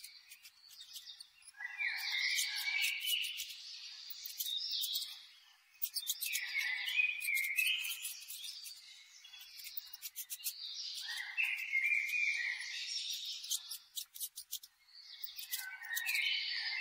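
Birds chirping and twittering in short bursts that come back about every four to five seconds, with quick sharp clicks in between.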